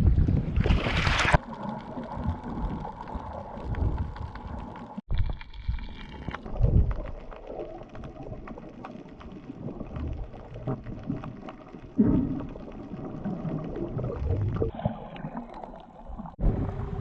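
Muffled underwater sound from a diving camera, gurgling with many small clicks and crackles, in several separately cut stretches. A brief burst of wind-and-boat noise comes before it at the very start.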